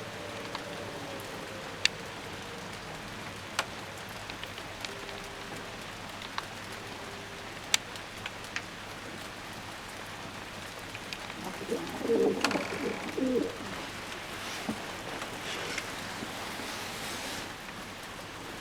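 Heavy rain falling steadily, with sharp drips hitting a surface now and then. Fantail doves coo softly near the start, and more loudly for a second or two about twelve seconds in.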